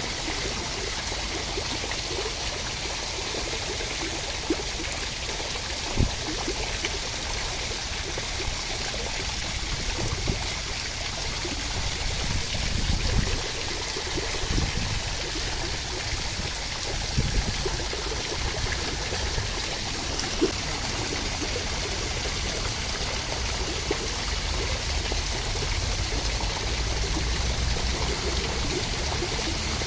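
Steady rushing water, an even hiss with a few soft low thumps and a low rumble that swells at times.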